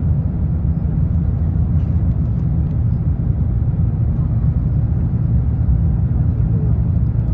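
Steady low rumble of cabin noise aboard an Airbus A350-1000 airliner on its way into Hong Kong.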